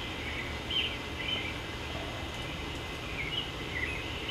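Birds giving short, scattered chirps, about five in all, over a steady low background noise.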